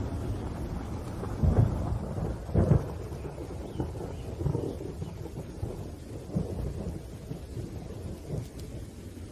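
Rolling thunder rumbling over steady rain, with two louder peaks of rumble about a second and a half and nearly three seconds in, then smaller rolls that die down.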